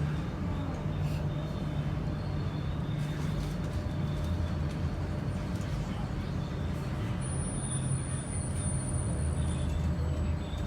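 Queensland Rail IMU 100 electric multiple unit running between stations, heard inside the carriage: a steady rumble with a low hum that drops lower near the end.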